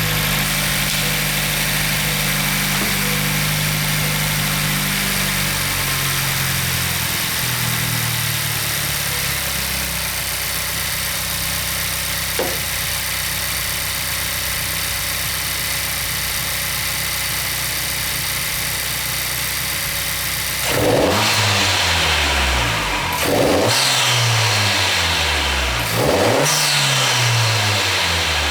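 2022 Honda Civic Si's 1.5-litre turbocharged four-cylinder engine with a 27WON short ram intake, idling just after starting, its idle settling lower over the first several seconds. Near the end it is blipped four times, each rev rising and falling with a loud intake whoosh that sounds like a blow-off valve.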